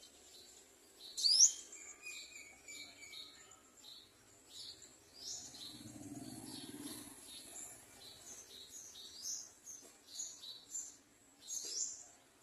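Small birds chirping: a string of short, high chirps, with one loud, sharp upward-sweeping call about a second and a half in. A faint low rumble rises and fades midway.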